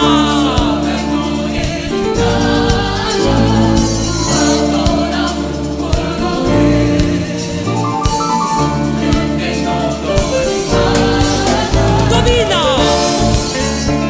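Choir singing a French gospel song with instrumental accompaniment, a steady beat and bass line under the voices.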